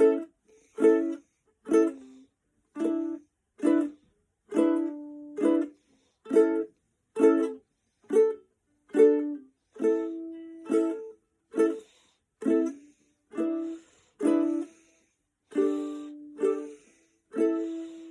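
Ukulele strummed in short chords about once a second, some in quick pairs, each one cut off by the hand so the strings stop dead between strums.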